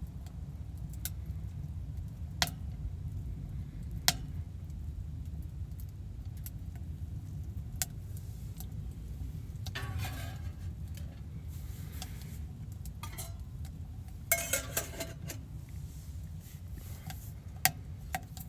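Small clinks and knocks of a cup and utensils being handled while coffee is made, with a couple of longer rustling stretches, over a steady low hum.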